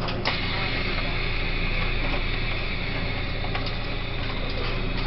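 Running sound of a Taiwan Railways E1000 push-pull express train in motion, heard from on board: a steady low rumble and hum. About a quarter-second in there is a click, then a high steady whine that fades away over the next few seconds.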